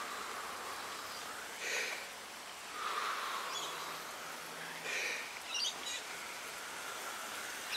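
Birds chirping outdoors: a few short high calls over a steady background hiss of ambient outdoor noise.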